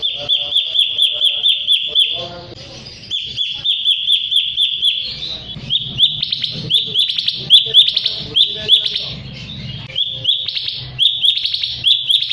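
Cucak cungkok bird calling: fast runs of sharp, repeated chirps, about five a second, broken by short pauses, becoming looser and more irregular after the middle.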